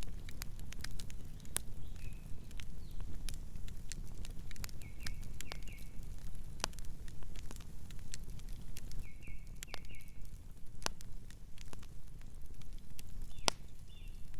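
Wood fire crackling, with sharp irregular pops over the low, steady rush of the flames. A small bird chirps in short runs of two or three quick notes, about four times.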